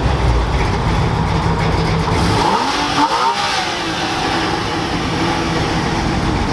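Car engine running with a low rumble, then revving once about two and a half seconds in, rising in pitch.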